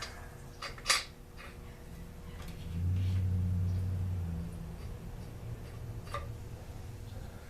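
Small metal chainsaw parts and hand tools handled on a workbench: scattered clicks and clinks, with a sharp click about a second in. A low rumble runs for about a second and a half in the middle.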